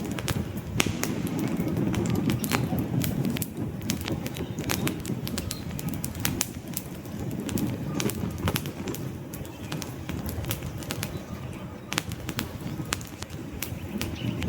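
Wood campfire burning, with many sharp crackles and pops, irregular and some louder than others, over the low steady rumble of the flames.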